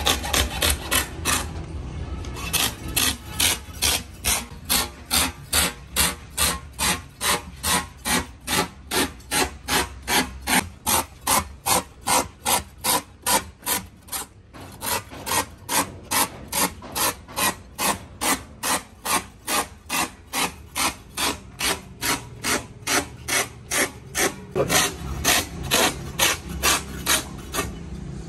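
Rhythmic scraping strokes, about two a second, of a hand tool worked back and forth over truck tyre rubber, with short pauses about a second and a half in and about halfway through.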